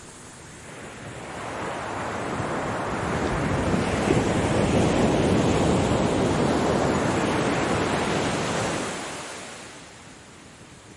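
One ocean wave breaking and washing in: a rush of surf that builds over about three seconds, holds, then fades away about two seconds before the end.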